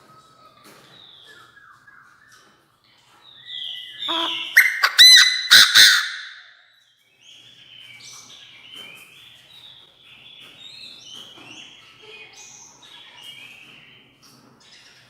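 Chinese francolin calling: a loud string of harsh notes lasting about two seconds near the middle, with fainter, higher bird chirps before and after it.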